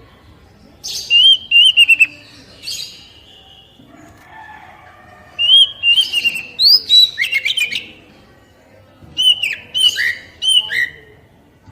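Oriental magpie-robin (kacer poci) singing in three bursts of quick whistled notes mixed with sharp chattering clicks, separated by short pauses. This is a kacer's basic song, of the kind played to wild-caught birds to prompt them to sing.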